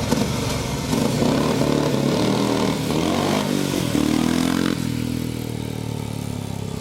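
Car engine running and revving: its note climbs about four seconds in, then drops back abruptly to a steadier, lower note near five seconds.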